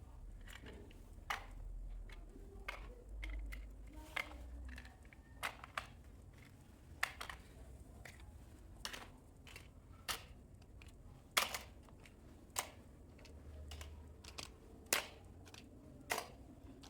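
Toy cars clicking and knocking, with sharp plastic clicks at irregular intervals of about one a second and a low rumble at times.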